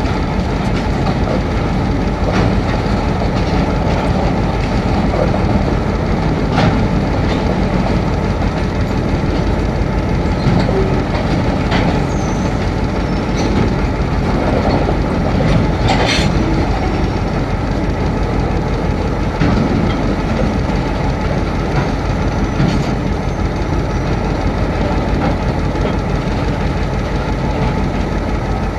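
Pakistan Railways train running at speed: a steady rumble of wheels on track, with sharp clicks now and then, the strongest about sixteen seconds in.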